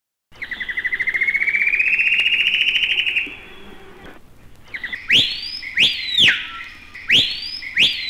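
Amazon rainforest animal recordings: first a rapid pulsed trill that climbs slowly in pitch for about three seconds, then, after a short gap, loud bird whistles that sweep up and then drop sharply, in two pairs.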